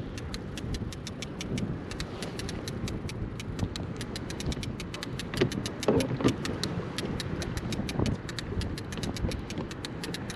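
Boat motor running steadily at trolling speed, a low hum with a fast, even ticking over it.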